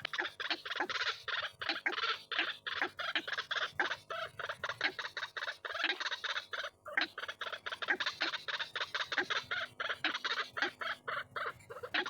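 White-breasted waterhen (ruak-ruak) calling: a rapid, unbroken run of short, harsh croaking calls, several a second, as used in a lure call recording for trapping the birds.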